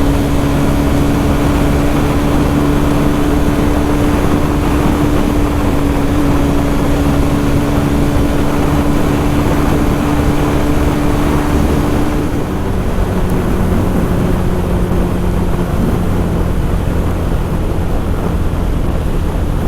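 Loncin GP 165cc single-cylinder motorcycle engine running steadily on the move, over a loud rush of wind and road noise. About two-thirds of the way through, its note drops to a lower pitch.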